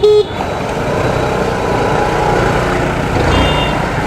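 Hero Maestro Edge scooter under way: steady wind and road noise while riding. A short high beep sounds a little over three seconds in.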